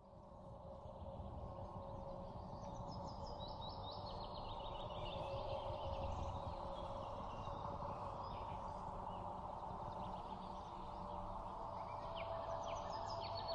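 Birds chirping in quick runs of short high notes, about a third of the way in and again near the end, over a steady background noise that fades in at the start.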